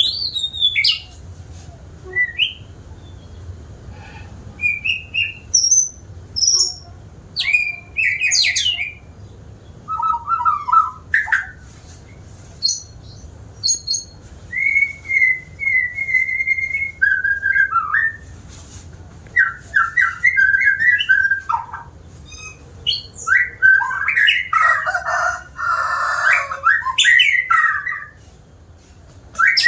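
White-rumped shama singing: a long run of varied whistled phrases, glides, trills and chirps with short pauses between them, and a denser, fuller burst of song near the end.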